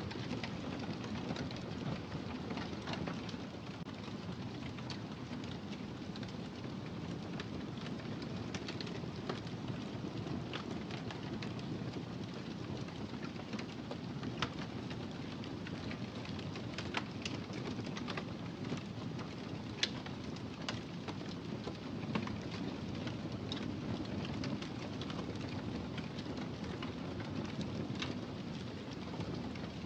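Wood fire burning steadily in a fireplace: a low rumble of flames with scattered sharp crackles and pops, a few louder snaps in the middle.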